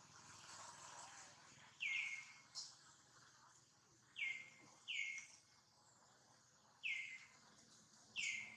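A bird calling: five short chirps, each dropping quickly in pitch, spaced one to two seconds apart over faint outdoor hiss.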